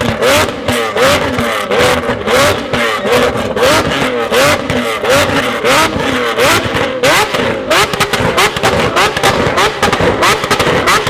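Performance car engine revved hard over and over, about two quick rising-and-falling blips a second, with sharp exhaust pops and bangs throughout.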